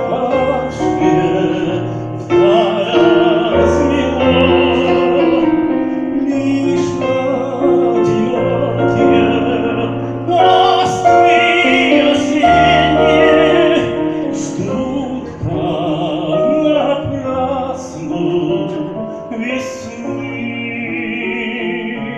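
A singer performing a Russian romance in a classical, operatic style, the voice held on long notes with wide vibrato over piano accompaniment; the music eases off near the end.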